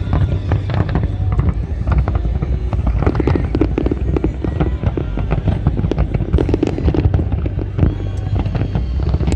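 Fireworks display: a rapid, unbroken series of bangs and crackles over a continuous low rumble.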